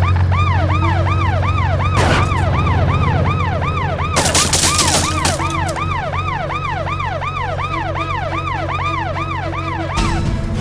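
Police car siren wailing in fast up-and-down cycles, about two and a half a second, over a steady low engine hum. A short rushing noise comes about two seconds in and a louder one at about four to five seconds, and the siren stops just before the end.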